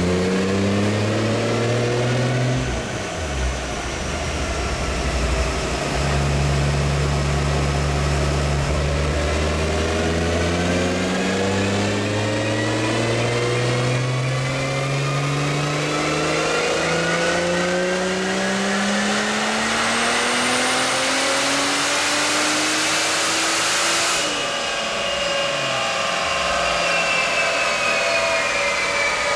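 Turbocharged Toyota 2JZ-GTE straight-six in a Datsun 240Z pulling under full load on a chassis dyno, revs climbing steadily for about twenty seconds. A loud hiss builds near the top of the pull, then the throttle closes and the revs fall away.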